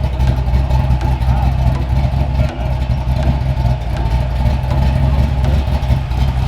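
Car engines running steadily among a crowd, with a strong low hum and people talking in the background.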